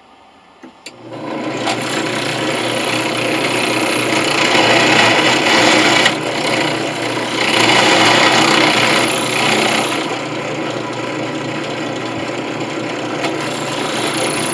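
Electric drill running and grinding as its bit cuts into a brass coin. It starts about a second in, the cutting noise swelling louder twice in the middle and easing near the end.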